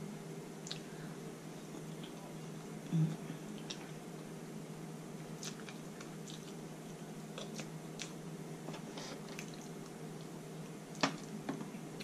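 Quiet chewing and soft wet mouth sounds of someone eating sauce-coated seafood-boil food, with scattered faint clicks and a short louder blip about three seconds in, over a steady low hum.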